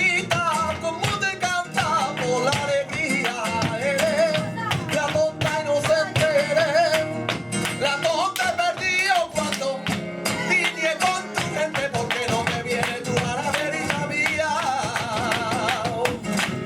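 Live flamenco tangos: a male flamenco singer (cantaor) singing wavering, ornamented lines over flamenco guitar, with frequent sharp percussive strikes throughout.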